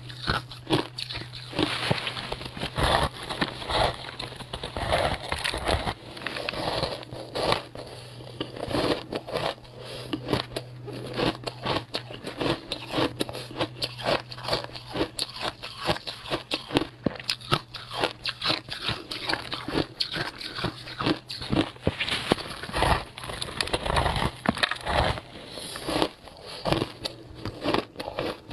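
Frozen passion fruit ice being bitten and chewed close to the microphone: a dense, irregular run of sharp crunches and crackles, over a steady low hum.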